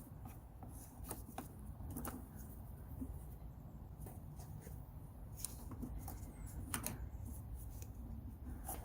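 Scattered light clicks and taps of hand tools and small metal parts being handled, a few at irregular times, over a low steady background rumble.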